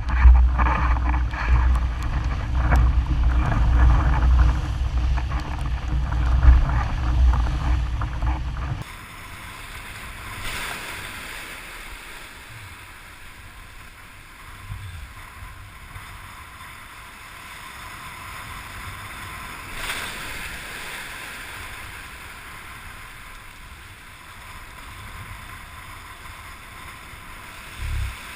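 Wind buffeting the camera microphone with water rushing past a windsurf board, heavy and gusty at first. About nine seconds in it changes suddenly to a quieter, even hiss of water and wind.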